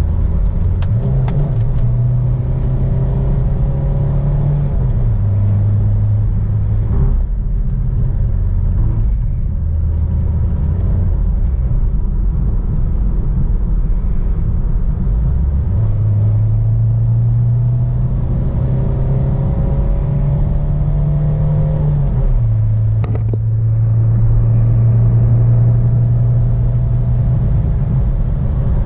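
Remapped Suzuki Baleno 1.3 DDiS four-cylinder turbodiesel engine running under load at speed, with steady road and tyre noise. Its hum holds steady for stretches and steps up or down a few times as the revs change, with faint rising whines during the pulls.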